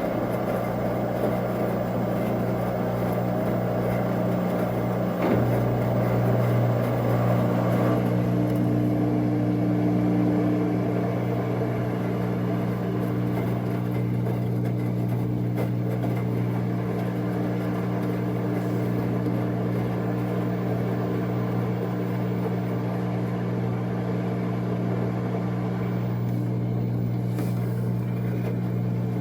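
Washing machine draining: its drain pump runs with a steady hum as the wash water is pumped out.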